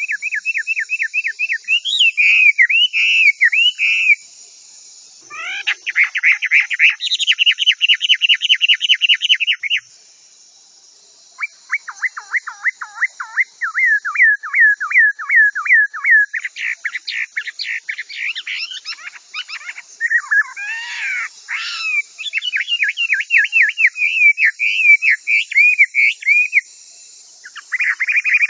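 Chinese hwamei singing a loud, varied song: runs of fast, quickly repeated whistled notes, each run a few seconds long and changing to a new phrase, with short breaks about four and ten seconds in. A steady high hiss lies underneath.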